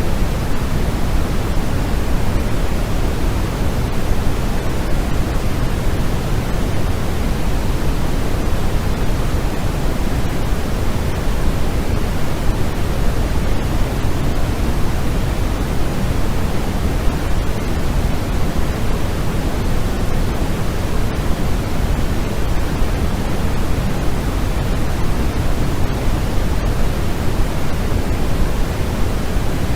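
Continuous white noise: a steady, unbroken hiss that is fuller in the low end than in the highs.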